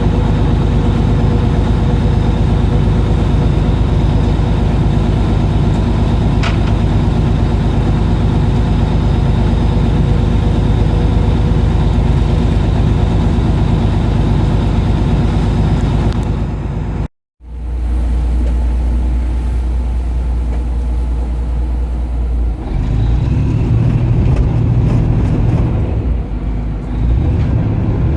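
Fishing boat's engine running steadily, a constant low hum with several held tones. About 17 seconds in it cuts off abruptly, then resumes as a deeper, heavier hum that shifts twice more.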